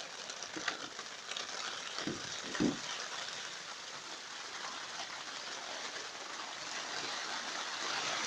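Heavy rain drumming steadily on the polythene cover of a polytunnel, with fine pattering ticks. Two brief low thumps come about two seconds in.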